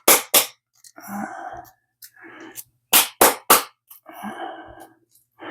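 Lids of grain-spawn jars being tapped by hand: two sharp taps at the start, then a quick run of three about three seconds in, with softer shuffling and handling sounds of the jars in between.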